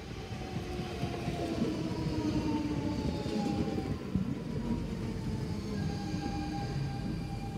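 Electric train running through the station, a rumble that builds over the first couple of seconds. Its motors whine, the tone sliding down a little and then holding steady.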